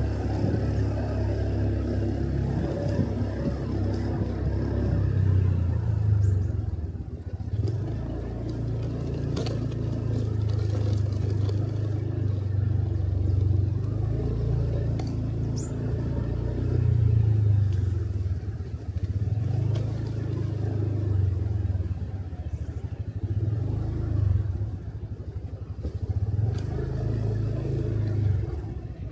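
Motorcycle riding along a road, its engine and road noise a continuous deep rumble that swells and eases every few seconds.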